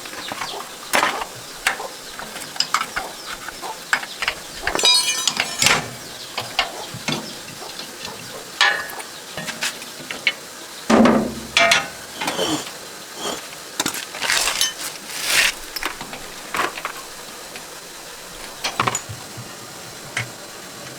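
Irregular metallic clinks, knocks and scrapes of hand tools and small tractor parts being handled during a repair. A short rattle comes about five seconds in, and a longer scrape just before the middle.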